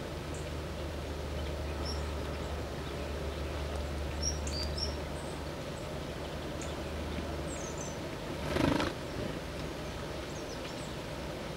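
Wild birds at a feeder giving scattered short, high chirps, over a steady low hum. About three-quarters of the way through, a brief louder rush of noise stands out.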